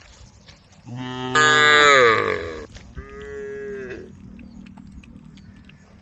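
Cattle mooing twice. The first moo, about a second in, is long and loud and drops in pitch at the end. The second, about three seconds in, is shorter and quieter.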